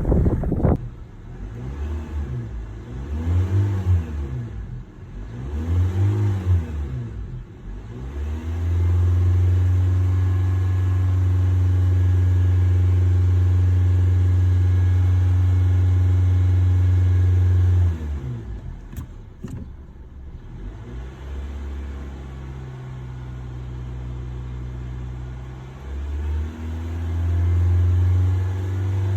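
2020 Honda Civic's four-cylinder engine being revved: two short blips that rise and fall, then held at a steady raised rpm for about ten seconds before dropping back to a lower idle, and climbing again near the end.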